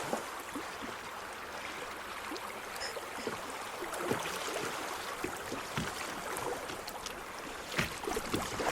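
Shallow creek water rushing and rippling over rocks around a kayak, a steady noise with small scattered ticks and splashes.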